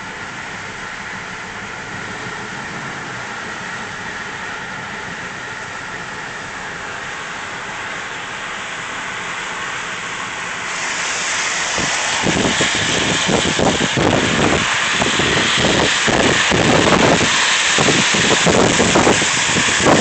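Car driving in a tropical storm: steady engine and road noise inside the cabin, then about ten seconds in a much louder rushing hiss with irregular gusts of wind buffeting the microphone.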